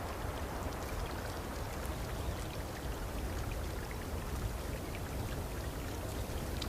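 Steady light dripping of water, an even wash of noise with scattered faint drips, like meltwater falling through the forest.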